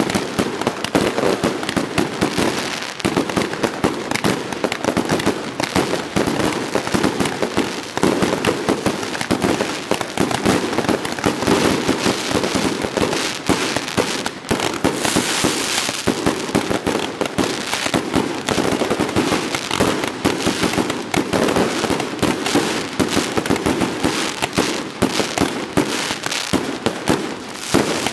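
Fireworks display finale: a continuous, dense run of aerial bursts and crackling, many bangs a second with no pause.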